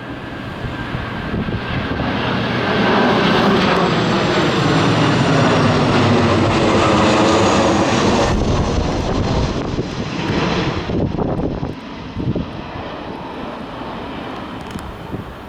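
Boeing P-8 Poseidon's twin CFM56 turbofans as the jet passes low overhead. The engine noise builds to a loud peak over the first few seconds, holds for several seconds, then loses its high hiss abruptly and fades as the aircraft moves away.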